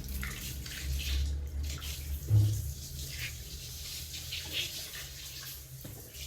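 Water running from a tap and splashing, with a dull knock about two seconds in.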